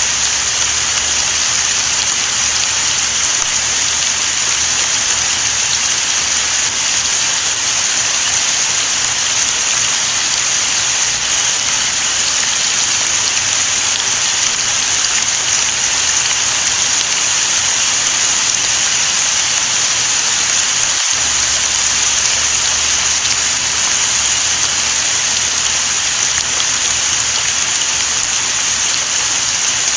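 Steady rain falling on surfaces, an even, unbroken hiss.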